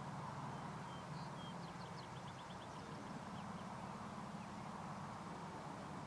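A songbird sings faintly about a second in: two short whistled notes, then a quick trill of rapid notes. Under it is a steady low hum with a wash of background noise.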